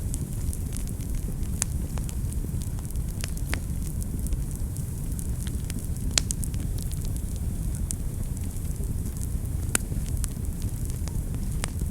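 Fire burning in a fireplace: a steady low rumble of flames with frequent sharp crackles and pops, a few louder pops scattered through.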